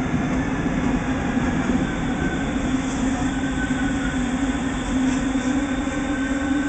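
Double-decker passenger train running at the platform: a continuous rumble of wheels with a steady electric hum that grows stronger from about two seconds in.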